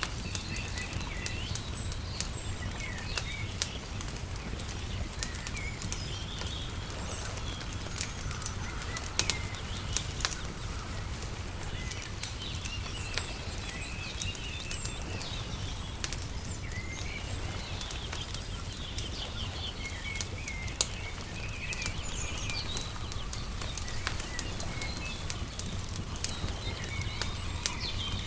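Wood fire crackling with scattered sharp pops over a steady low rumble, while small birds chirp and twitter on and off.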